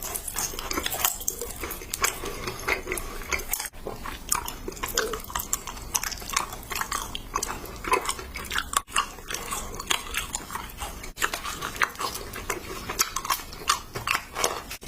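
Close-miked ASMR eating of blue sugar candy: a steady run of crisp bites and crunchy crackles, broken three times by a split-second drop to silence.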